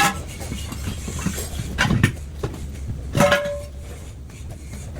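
Metal tools knocking against a truck's steel wheel rim and tyre: three sharp clanks, the last ringing briefly, over a steady low rumble.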